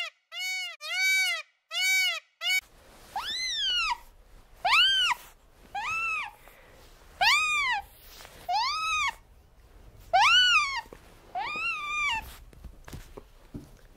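A quick run of short, evenly spaced calls, then about seven high-pitched squealing otter calls, each rising and falling, spaced a little over a second apart over a faint background hiss.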